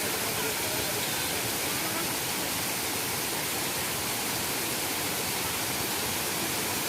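Waterfall: water falling into a pool, a steady, even rushing noise with no change in level.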